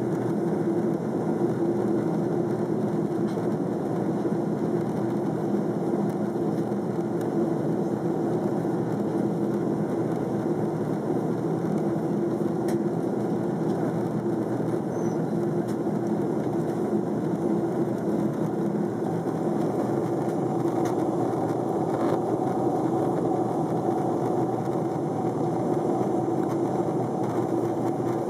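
Steady drone inside an airliner cabin in flight, engine and airflow noise with a constant low hum. A faint higher tone joins it in the second half.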